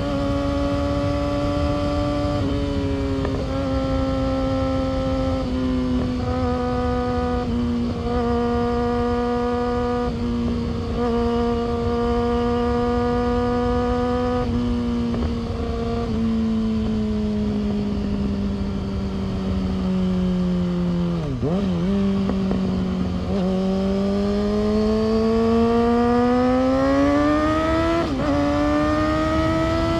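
Yamaha R6's 600 cc inline-four engine and exhaust under way at high, steady revs, the pitch easing slowly down. Past two-thirds of the way it drops with a couple of quick dips, then climbs steadily as the bike accelerates, with a brief dip at a gear change near the end.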